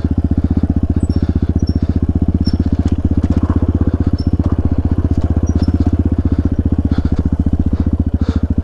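Dirt bike engine running steadily at low revs, its firing pulses even and unchanging.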